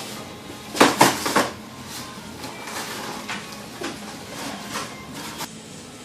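A quick run of sharp knocks and clatters about a second in, followed by scattered lighter clicks over a steady background hiss.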